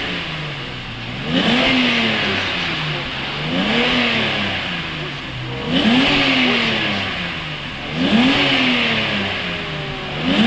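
Mercedes-Benz 3.5-litre petrol engine being revved in short throttle blips, about every two seconds: each rev climbs quickly and then falls slowly back toward idle, five times. This is during a hydrogen carbon-cleaning treatment of the engine.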